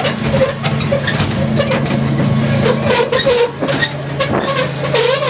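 Riding lawn mower engine running steadily under way, with a string of short, wavering squeaks over the engine hum.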